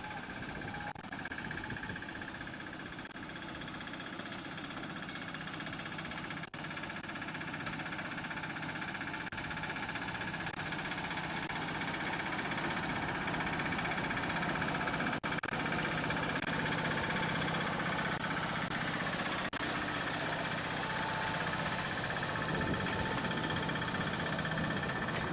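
A small vehicle engine running steadily, slowly getting louder.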